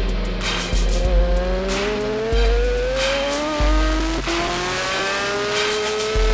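Racing motorcycle engine accelerating hard, its pitch climbing slowly and steadily, over music with a heavy bass beat and drum hits.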